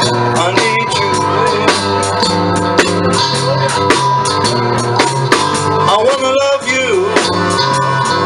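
Live blues band playing an instrumental break: a drum kit keeps a steady beat under low bass notes, and a lead line bends its notes about six seconds in.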